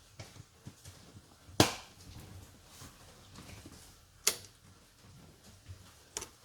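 Two sharp knocks, about three seconds apart, with fainter clicks and knocks between them and a short double click near the end, typical of tools or parts being handled.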